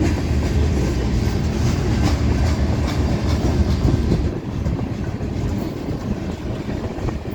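Freight train cars rolling past, with a heavy rumble and wheels clicking over the rail joints. The rumble eases a little after about four seconds.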